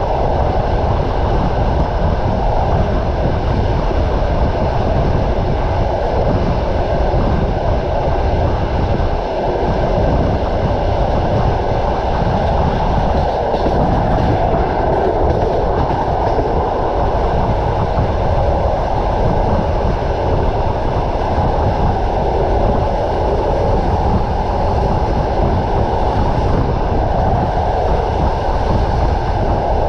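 Train wheels running on the rails at speed, a steady loud rumble with a rattle of the carriage.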